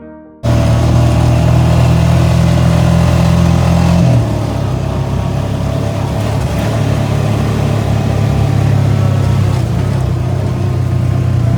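ATV engine running under way, loud and steady, with a wide rushing hiss over it. Its pitch drops a little about four seconds in and picks back up a couple of seconds later.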